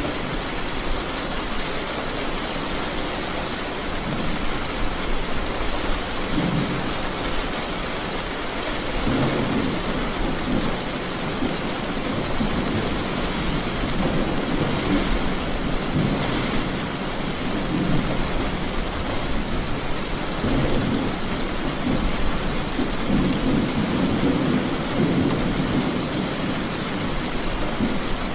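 Steady rain with thunder rumbling on and off, starting about four seconds in and swelling again several times.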